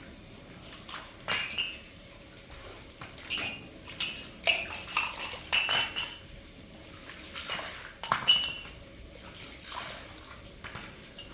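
Dishes and utensils clinking and clattering: a dozen or so scattered knocks, several with a short ringing tone.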